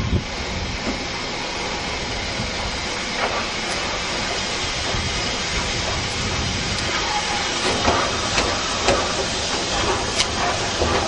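Train running on rails, a steady rumble and hiss with a few sharp clicks, mostly in the second half.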